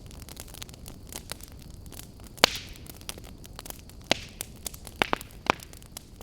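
Wood campfire crackling: a steady low hiss of burning with frequent sharp pops and snaps, the loudest pop about two and a half seconds in and several more near the end.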